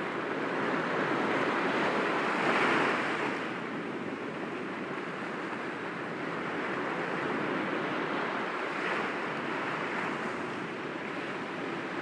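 Sea waves breaking gently against rocks, a steady wash of surf that swells to a peak about three seconds in and then eases off.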